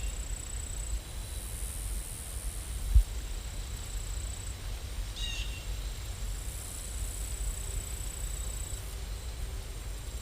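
Steady background noise with a low rumble and a faint high whine, broken by a single thump about three seconds in and a short chirp about five seconds in.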